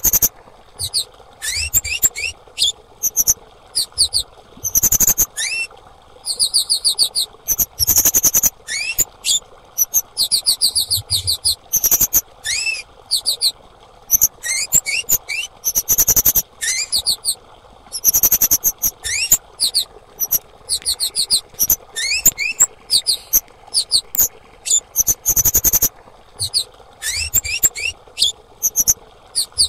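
Female kemade bird calling: quick runs of sharp, high chirps mixed with short rising notes, repeated in bursts about every second without a break.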